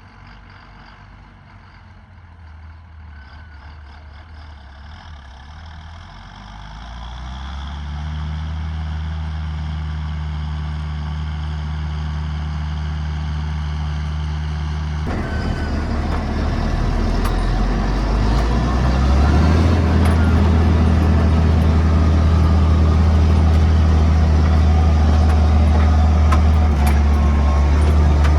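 John Deere 7800 tractor's six-cylinder diesel engine working under load while pulling an Amazone Catros+ disc harrow through the soil. It grows louder and then holds steady. About halfway through, a broad rushing noise from the discs cutting the ground suddenly joins the engine hum.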